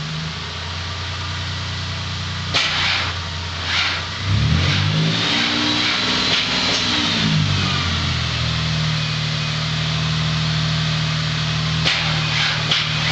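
A Toyota 4Runner engine, running as the donor vehicle in a jump start, idles, is revved up once for a few seconds about four seconds in, and settles back to a steady idle. A few short knocks sound over it.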